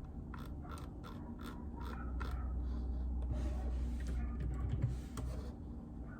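Typing on a JJK84 mechanical keyboard with Outemu Silent Peach linear switches: soft, irregular keystrokes, with a stretch of scratchy rubbing and a low rumble in the middle.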